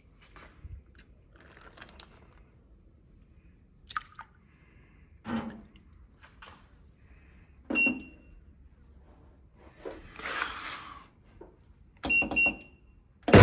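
Scattered knocks and clinks of objects being handled, a few of them with a short ringing tone, and a brief rustle about ten seconds in.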